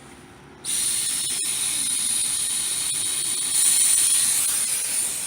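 Pressurized gas hissing steadily out of an air-conditioner service valve or gauge hose. The hiss starts abruptly under a second in, carries a high whistle-like edge, and grows louder about three and a half seconds in.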